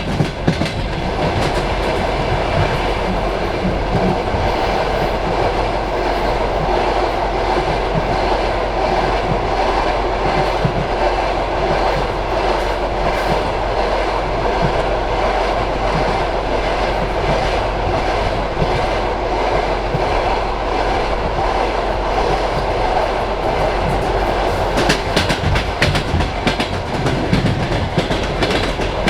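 Passenger train carriage running along the track: a steady rumble of wheels on rails, with a run of sharp clicks near the end as the wheels pass over rail joints.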